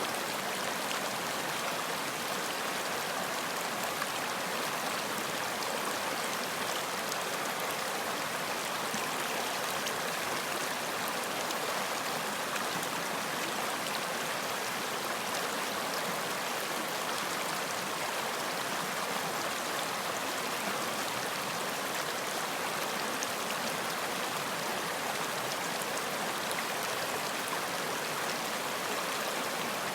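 Running water flowing with a steady, even rush that never lets up.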